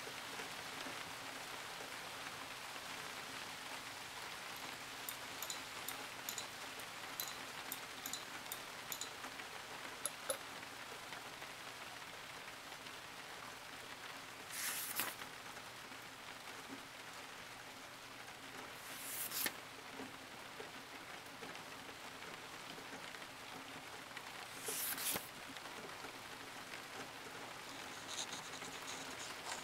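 Steady rain falling, an even pattering hiss, with a few faint light ticks early on and three brief swishes spaced a few seconds apart in the second half.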